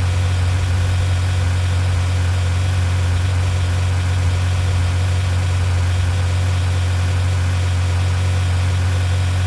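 Vehicle engine idling, a steady low drone that does not change.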